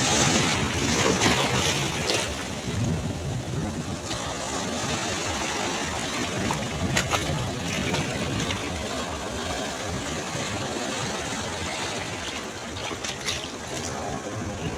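Ocean waves breaking and washing on the shore, with a louder surge in the first two seconds and then a steady rushing wash.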